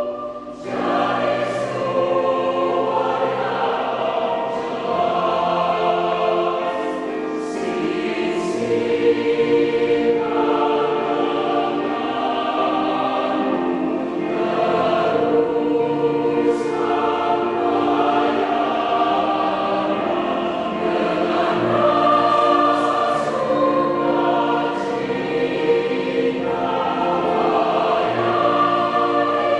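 Large church choir singing a hymn, many voices holding chords together, with a short breath just after the start before they come back in.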